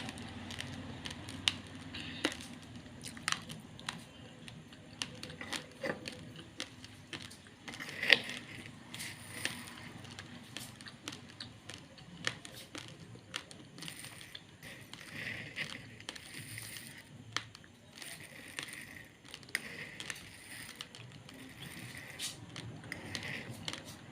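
Close-up chewing of raw, uncooked basmati rice: irregular crunches and sharp cracks of hard grains breaking between the teeth, with one louder crack about eight seconds in.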